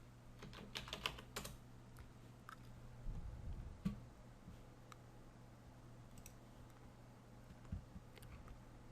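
Faint typing on a computer keyboard: a quick run of keystrokes about a second in, then a few scattered key clicks, over a faint steady low hum.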